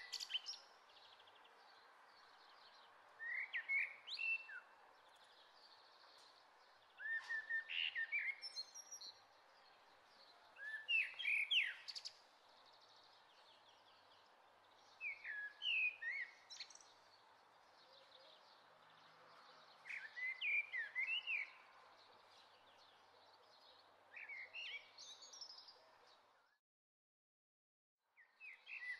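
Birdsong: a songbird sings short chirping phrases every few seconds over a steady soft hiss of outdoor ambience. The sound cuts out briefly near the end, then resumes.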